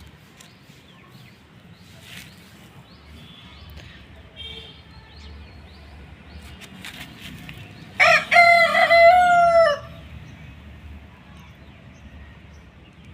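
A rooster crows once, loudly, for about two seconds near the end, over faint chirps of small birds.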